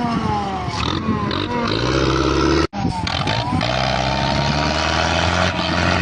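Tractor engines running under load, their pitch shifting slightly. The sound breaks off for an instant about halfway through.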